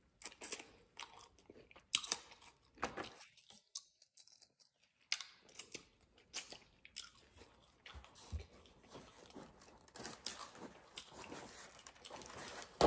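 Close-miked chewing and biting into bone-in chicken wings: irregular crunchy clicks and crackles, with a pause of about two seconds a few seconds in.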